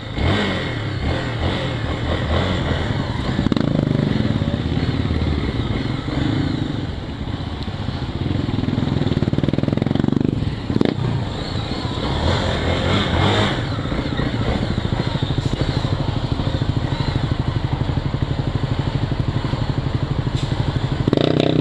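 Small single-cylinder motorcycle engine running while riding, its note changing a few times as the throttle varies.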